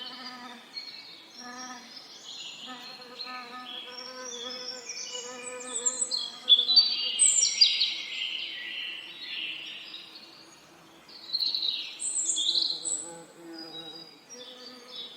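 Several songbirds chirping and trilling over one another, with a bee's low hum beneath. The birds are loudest in the middle and again a little before the end.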